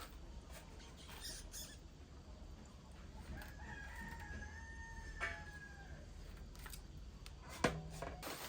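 A rooster crowing once, faint and held for about two and a half seconds, starting about three seconds in. A sharp click near the end is the loudest moment.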